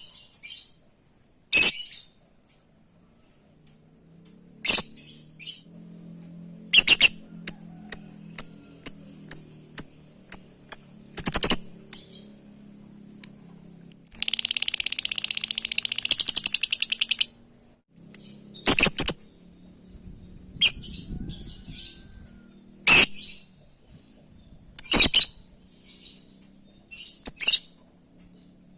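Lovebird calls: loud, sharp, high-pitched calls every second or two, a run of short quick chirps from about 7 to 11 seconds in, and a buzzing chatter lasting about three seconds in the middle. A faint low hum sits underneath.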